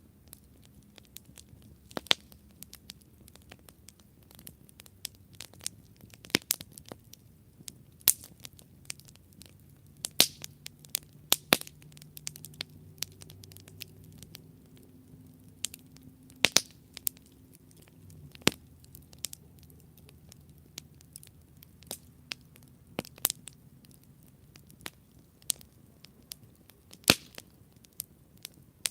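Campfire crackling: burning wood gives irregular sharp pops and snaps, a few much louder than the rest, over a soft hiss. A faint low hum runs underneath through the middle of the stretch.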